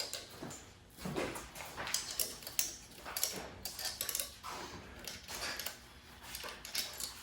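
Irregular light clicks and knocks, typical of tools and small metal parts being handled and set down.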